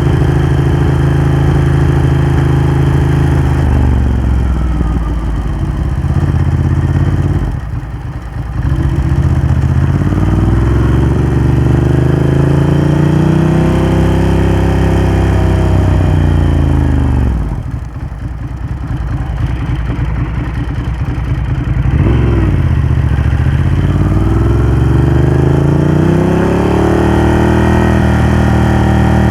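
Ducati Hypermotard 1100's air-cooled L-twin running through a Termignoni exhaust on a ride. The engine revs rise and fall repeatedly as it accelerates. It backs off sharply about eight seconds in and again about eighteen seconds in, then pulls up through the revs once more.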